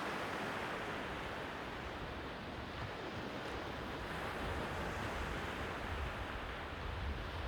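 Sea surf washing on the shore, a steady hiss of waves, with a low rumble that builds toward the end.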